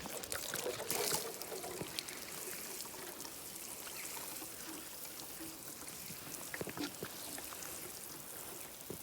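Water being poured onto allotment plants and soil: a steady splashing pour with small spatters.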